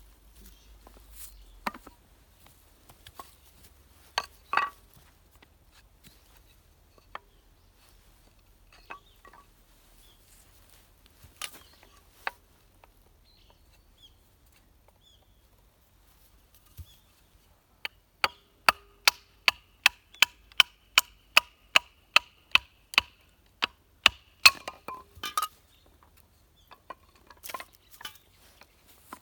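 Steel being struck with a hammer: scattered knocks and clinks, then a quick, even run of about twenty blows over some seven seconds, each with a metallic ring, then a few more knocks.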